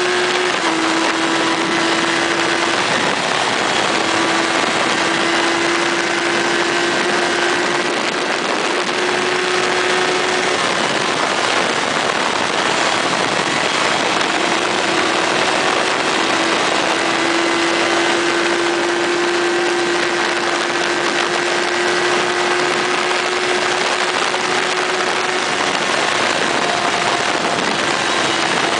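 Motorcycle engine running at a steady cruise, a constant hum that barely changes pitch, under a heavy rush of wind noise.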